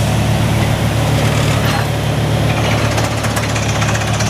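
Water-well drilling rig running steadily with a loud engine drone, and from about halfway through a rapid, even hammering from the drill working down the hole.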